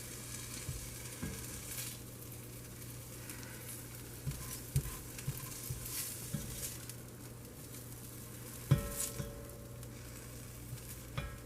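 Sliced onion and sweet peppers sizzling steadily in olive oil in a frying pan, while a utensil stirs and scoops them with small scattered clicks against the pan. There is one sharp knock on the pan about nine seconds in.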